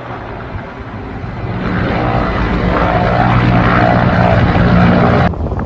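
Aircraft engine droning overhead, growing steadily louder as it comes closer, then cut off abruptly near the end.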